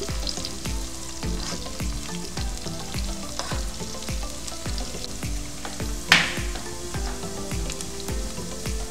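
Sliced onions deep-frying in a pan of hot oil, a steady sizzle, stirred with a slotted spatula, with one brief sharp sound about six seconds in. Background music with a steady beat plays underneath.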